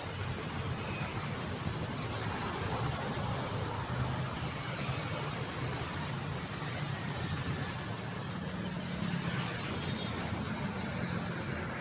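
Steady road noise from moving vehicles: a low engine hum under an even rush of noise.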